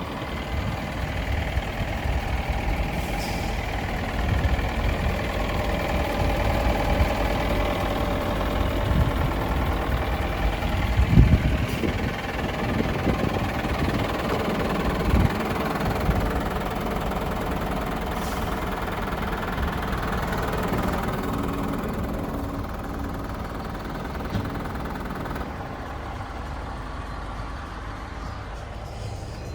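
Scania R410 LNG truck with its liquefied-natural-gas engine running. The engine sound grows louder toward the middle, with two sharp low thumps, then eases off toward the end.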